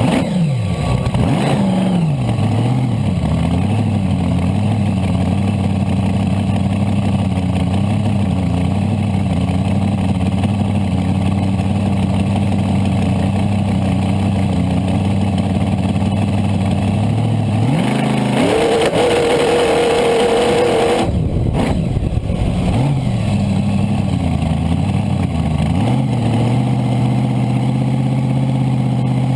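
Supercharged small-block Chevy V8 with a 6-71 blower in a front-engine dragster, idling steadily with occasional throttle blips. About eighteen seconds in it revs up hard and holds high revs for about three seconds, then drops back to idle.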